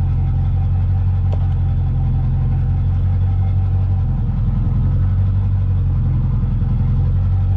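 Steady low drone of a vehicle engine running, with a faint steady whine above it.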